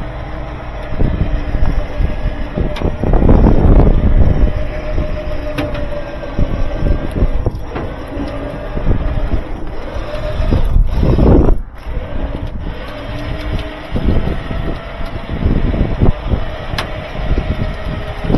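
A vehicle on the move: a loud, constant low rumble of road and engine noise that swells and eases, with a faint steady whine and a few knocks and rattles.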